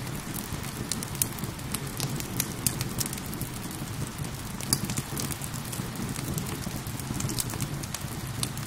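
Steady rain together with a wood fire crackling, its sharp pops and snaps scattered irregularly over the rain's even hiss and a low, steady rumble.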